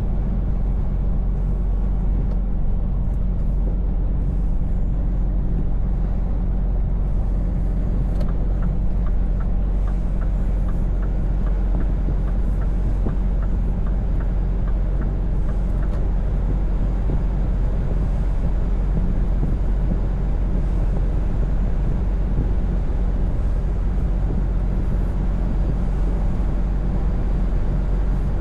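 Scania V8 diesel truck engine running steadily on the road, a constant low drone with road noise. For several seconds about a third of the way in, a faint regular ticking sounds over it, about two ticks a second.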